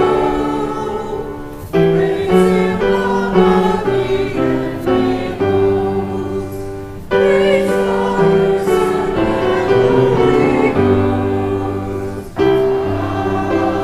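Church choir singing a slow anthem in sustained chords, in phrases that break off and begin again about every five seconds.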